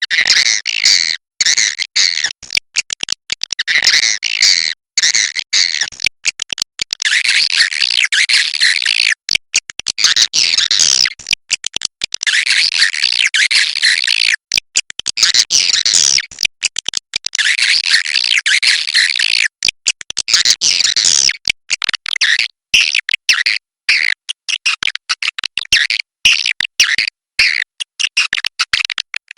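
Swiftlets chirping and twittering in a dense, unbroken chorus of high, shrill calls, cut by many brief, abrupt gaps.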